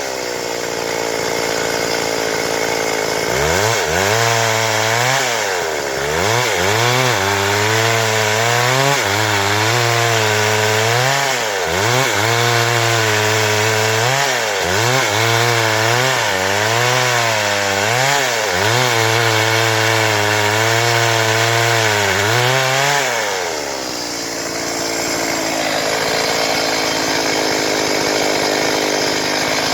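Stihl MS 382 two-stroke chainsaw cutting boards at high revs. From a few seconds in, the engine note dips and recovers about once a second as the chain bites into the wood under load. Near the end the engine pitch drops away into a steady rough noise that stays as loud.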